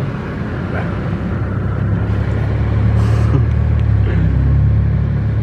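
Car engine and road noise while driving, a low steady drone that grows louder about a second and a half in.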